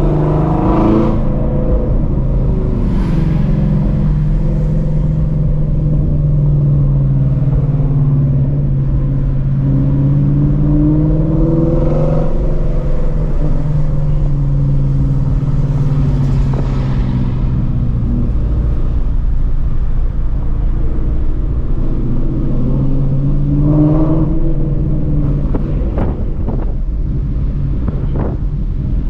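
The exhaust of a straight-piped 2016 Ford Mustang Shelby GT350, a 5.2-litre flat-plane-crank V8 with long-tube headers, running at low revs in traffic. Its note rises in pitch twice as the car gets on the throttle, and a few sharp clicks come near the end.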